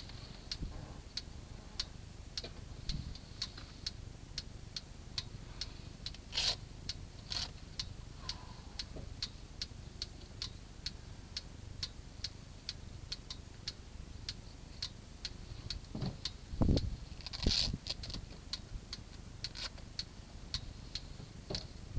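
Steady rhythmic ticking, about two to three ticks a second, over a low rumble. A few louder knocks come about six to seven seconds in, and the loudest, a low thud, comes around seventeen seconds in.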